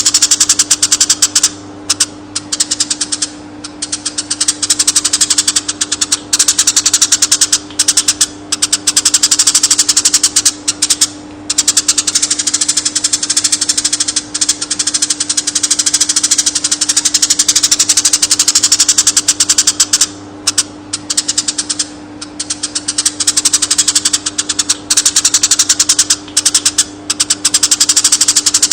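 Konin bird singing a fast, dense chattering trill in long runs broken by brief pauses every few seconds, over a steady low hum.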